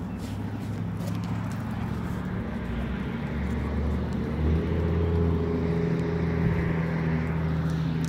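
A motor vehicle's engine running as a steady low rumble, a little louder from about halfway through.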